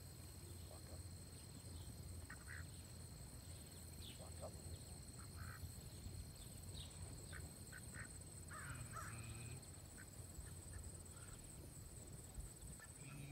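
Scattered short, harsh bird calls, most of them between about four and nine seconds in, over a steady high insect drone.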